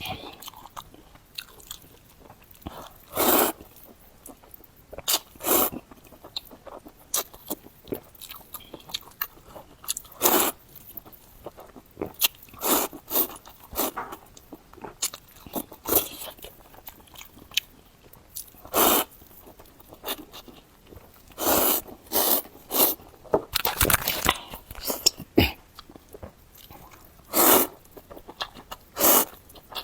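Close-miked eating of spicy Korean fire noodles: wet chewing and biting in irregular bursts, some short, some drawn out over about half a second.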